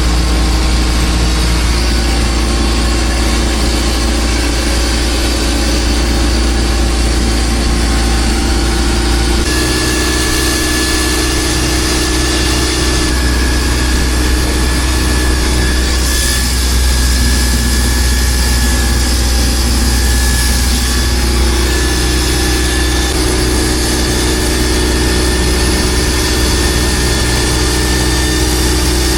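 Boat engine running steadily and loudly, a constant low drone, with a sudden shift in its tone about a third of the way through.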